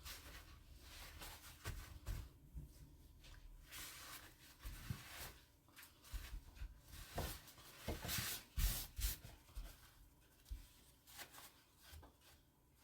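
Irregular rustling, scraping and short light knocks of things being handled by hand in a small room, loudest briefly about eight to nine seconds in.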